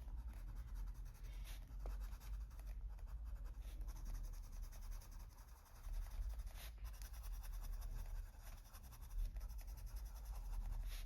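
Coloured pencil rubbing over paper in quick, light strokes, blending a layer of light green into the shading.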